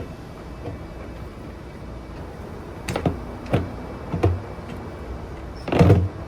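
Knocks and clunks from a manual tire changer's bead breaker being worked around a motorcycle wheel to break the tire bead: three knocks about half a second apart, then a longer, louder clunk near the end.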